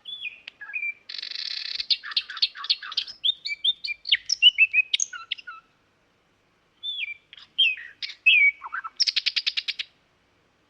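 Common nightingale singing: varied phrases of whistled notes, buzzy trills and rapid runs of repeated notes, with a pause of about a second in the middle and a fast run of notes near the end.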